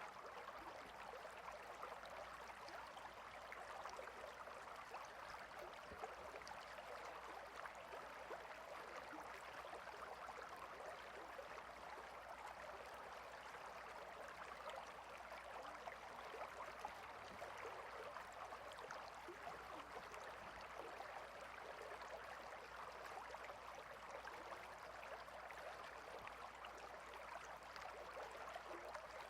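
A stream flowing: faint, steady rushing and trickling of water.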